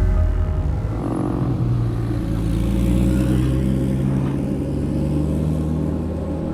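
A car engine running steadily at speed, its pitch climbing gently over the first few seconds and then holding.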